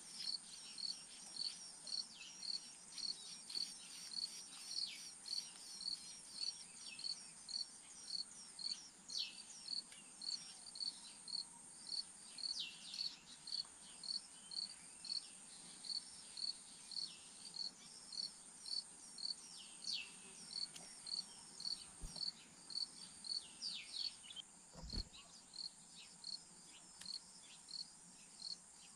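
Insects chirping in a steady, regular pulse about twice a second over a continuous high-pitched drone. A few short downward-sliding calls cut in now and then.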